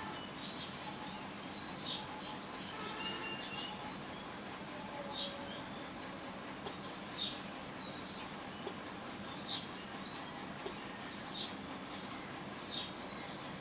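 Colour pencil shading on paper: short scratchy strokes, irregular, about one a second. Underneath runs a steady, fast, high-pitched pulsing chirp.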